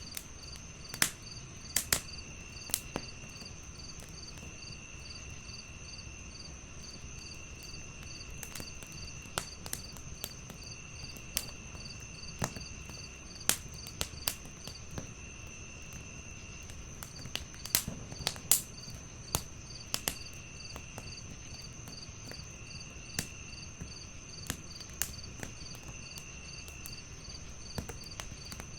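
Several crickets chirping together: a steady high trill, a regular pulsed chirp about twice a second, and a lower trill that comes and goes every second or two. Over this, a wood fire crackles with irregular sharp pops, the loudest ones bunched a little past the middle.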